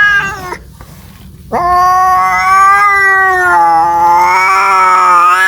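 A cat yowling in long drawn-out caterwauls: one call trails off about half a second in, and after a short pause a second long wail begins, wavering and rising slightly in pitch as it holds on. The yowling of a cat calling for a mate.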